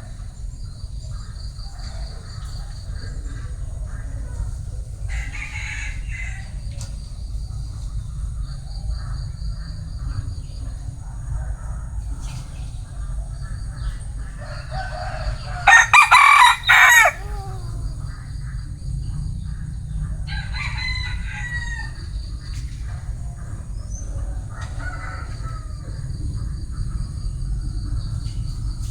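Bantam rooster crowing once loudly about halfway through, a short strained crow, with fainter bird calls before and after over a steady low rumble.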